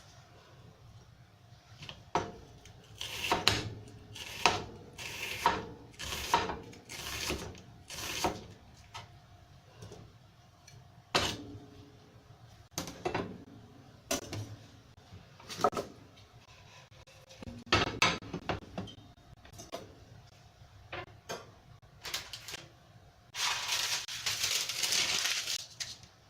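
Kitchen utensils and dishes being handled: a string of separate knocks, clinks and scrapes, then a steady rushing hiss for about two seconds near the end.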